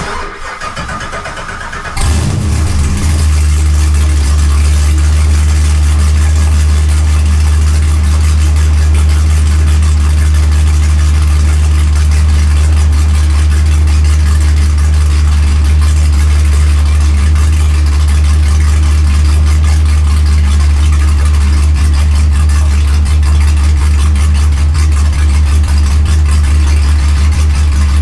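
Chevrolet Camaro SS V8 being cranked by the starter, catching about two seconds in, then idling loud and steady through new 2-inch headers and a 3-inch X-pipe with no exhaust fitted behind it.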